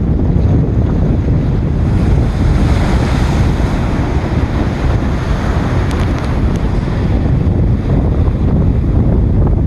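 Strong wind buffeting the microphone over the rush of ocean waves breaking against a jetty. One wave surges up about two seconds in and washes off over the next few seconds.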